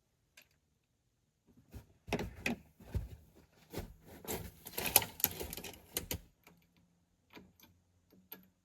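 Metal hand tools, sockets and wrenches, clinking and clattering against each other in an irregular run of clicks and knocks for about four seconds, then a few lone clicks near the end.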